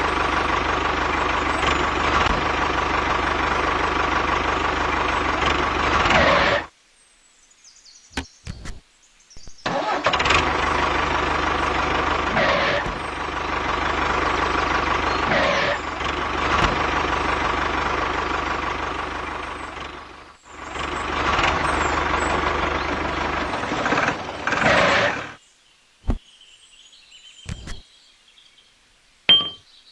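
A mini DIY tractor running with a steady, engine-like hum. It cuts off abruptly twice, with near silence and a few clicks between. Around the middle it dies down and picks up again.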